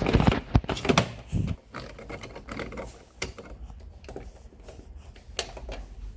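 A series of irregular clicks and knocks, several close together in the first second and a half and single ones later, over a steady low background hum.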